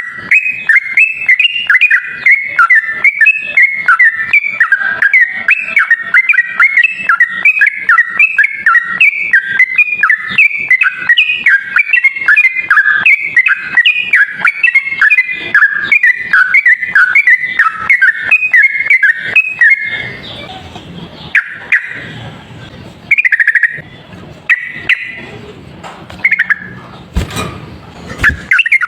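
Yellow-vented bulbul (trucuk) singing a fast, unbroken run of bubbly warbled notes for about twenty seconds. The song then breaks off into a few short separate calls over a rougher background, with a sharp knock near the end.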